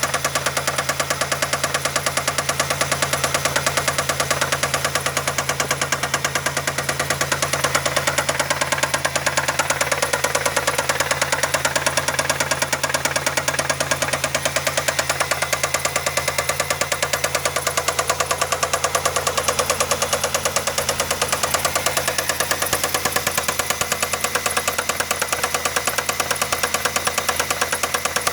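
Car engine running steadily with a rapid, regular knock in time with the engine, which the owner suspects is a bad rod bearing.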